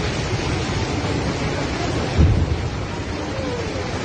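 Steady rushing roar of floodwater with heavy low rumble, a low thump about two seconds in.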